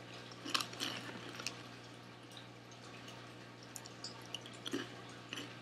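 Someone quietly eating baked crunchy cheese puffs (Cheetos Baked Flamin' Hot): faint, scattered small crunches and wet mouth clicks, with a few light crinkles from the snack bag.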